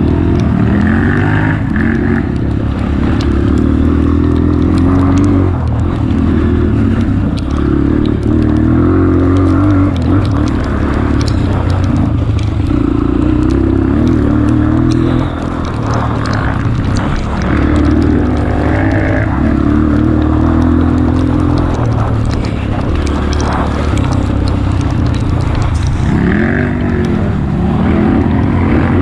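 Honda CRF230F trail bike's single-cylinder four-stroke engine running hard, its pitch rising and falling over and over as the throttle is worked, with frequent short knocks throughout.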